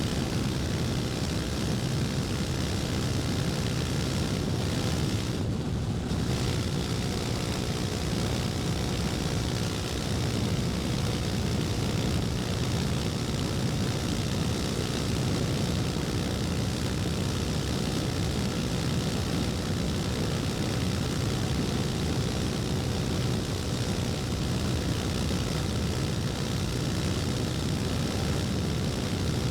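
KTM Duke 250's single-cylinder four-stroke engine running steadily under way, heard from on the bike. There is a brief dip in the sound about five seconds in.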